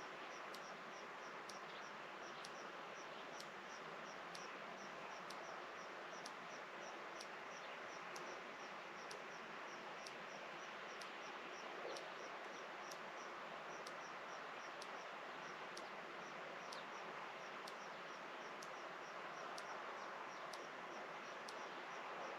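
Evening countryside ambience: a short high chirp repeating evenly about twice a second over a steady background hiss.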